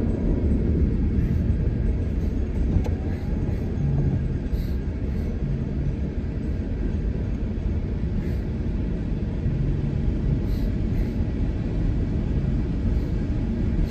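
Freight cars of a Norfolk Southern train rolling past steadily: a continuous low rumble of wheels on rail, with a few brief low hums now and then.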